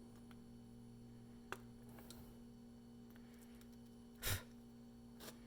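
Side cutters snipping the excess leads of freshly soldered capacitors on a circuit board: a sharp snip about a second and a half in, a louder one just after four seconds, and a faint one near the end, over a faint steady hum.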